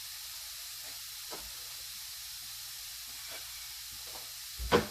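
Seasoned chicken breast pieces sizzling steadily in a hot, oil-sprayed pan, with a sharp knock near the end.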